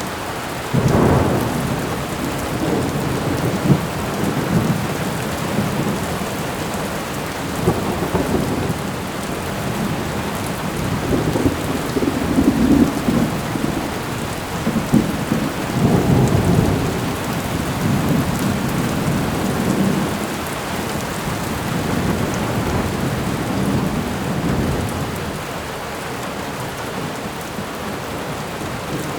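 Thunderstorm: steady rain hissing, with rolling thunder that rumbles up about a second in and keeps swelling and easing in waves before dying down near the end.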